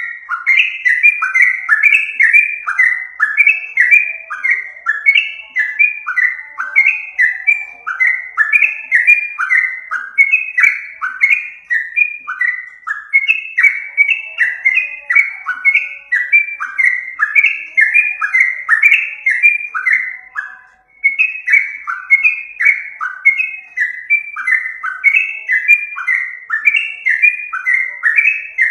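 Yellow-vented bulbul (trucukan) song, a fast, continuous run of short, bubbly whistled notes that fall in pitch, several a second, with a brief break about 21 seconds in. It is the kind of recording played as a lure to draw the bird in.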